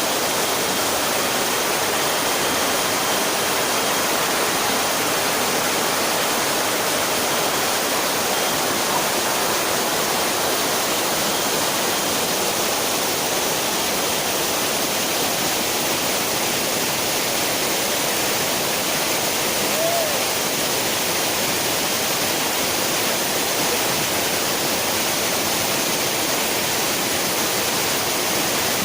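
Waterfall: water falling and splashing in a steady, unbroken rush, with a bright hiss that dominates the higher range.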